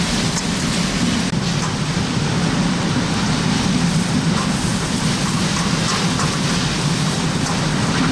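Steady, loud rush of hurricane-force wind and heavy rain, with a constant low rumble underneath.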